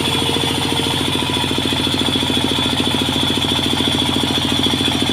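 A sawmill engine running steadily at idle, with a fast, even pulse and a steady high whine above it.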